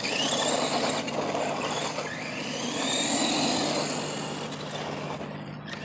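ARRMA Granite Voltage RC monster truck's brushed MEGA 20T 540 electric motor whining as the truck drives, the whine rising in pitch as it accelerates near the start and again about two seconds in, over a steady hiss.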